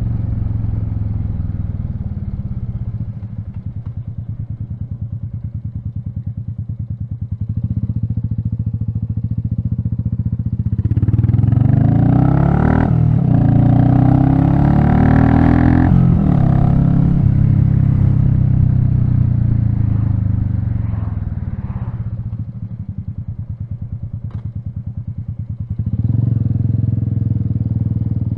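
Royal Enfield Meteor 350's single-cylinder engine running at low road speed with a steady pulsing note, getting louder for several seconds in the middle as its pitch rises and falls, then easing back before picking up again near the end.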